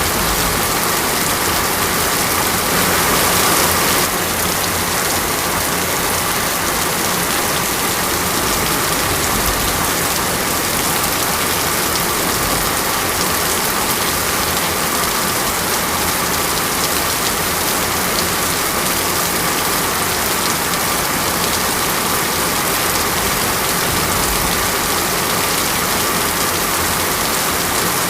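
Steady rain falling, an even hiss that swells slightly for a second or so a few seconds in.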